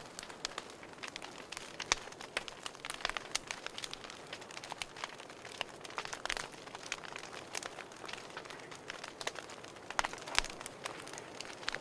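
Wood fire crackling in a fireplace: a soft hiss of burning with constant irregular small pops and a few louder snaps.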